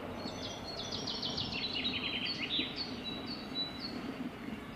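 A small songbird singing outdoors: a quick run of chirps that falls steadily in pitch over about two seconds, followed by a few separate higher chirps, over faint steady background noise.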